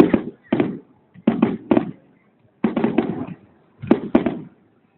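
Fireworks going off: a rapid series of sharp bangs in small clusters, each with a short echoing tail, with brief pauses between the clusters.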